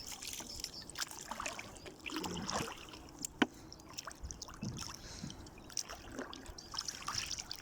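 Water splashing and dripping around a small boat with scattered light knocks, as a fishing net is hauled in over the side; one sharper knock about three and a half seconds in.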